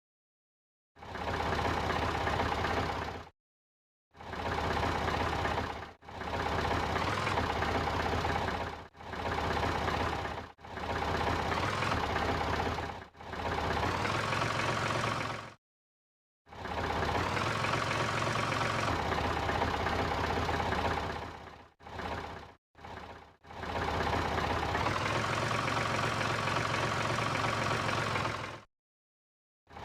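Daewoo Labo mini truck engine running steadily in a string of short clips, broken by about nine abrupt cuts to silence. The engine pitch steps up slightly a couple of times, around the middle and past two-thirds of the way through.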